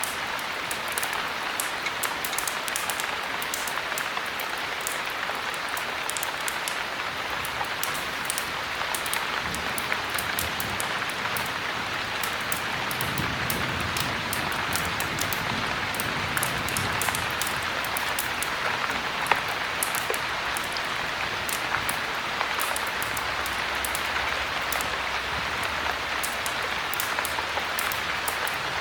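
Steady heavy rain, a dense even hiss with many sharp high ticks scattered through it. A soft low rumble swells and fades around the middle.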